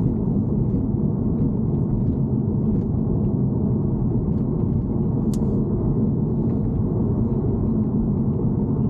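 BMW E90 car noise: a steady low rumble with faint, scattered light ticks and one sharper tick about five seconds in, recorded as an abnormal noise from the car.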